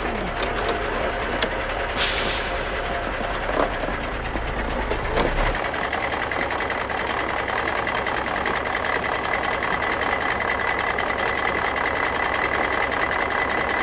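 Garbage truck sounds as it drives off: a running engine with a brief hiss about two seconds in. The low rumble drops away about five and a half seconds in, leaving a steady high whine over the running noise.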